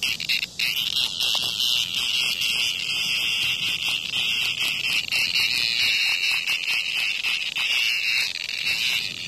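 Cicada giving a loud, steady, high-pitched buzz that falters briefly about half a second in.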